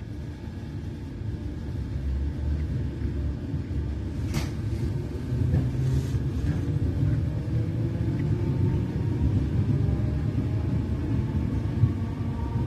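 Inside a Merseyrail Class 507 electric train as it gathers speed: a low rumble of wheels and running gear that grows louder over the first couple of seconds. Two sharp clicks come about four and six seconds in, and near the end there is a faint whine rising in pitch.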